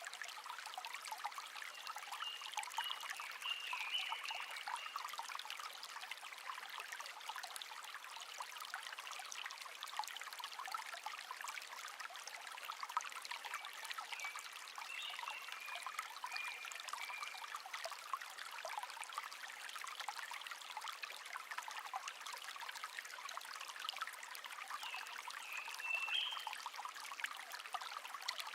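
A small brook babbling steadily, with birds singing a few short phrases over it: one near the start, another around the middle, and a brief one near the end.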